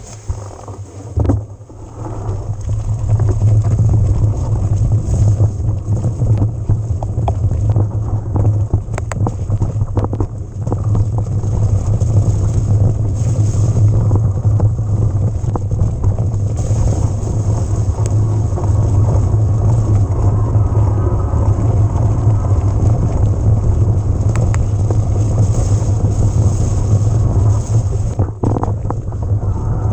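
Steady wind rumble on the microphone of a riding e-mountain bike, with tyre and trail noise and a few sharp knocks from bumps.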